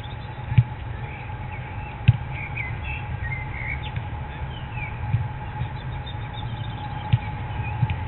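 Small birds chirping and twittering over a steady low rumble, with three sharp knocks, the loudest about half a second and two seconds in and another about seven seconds in.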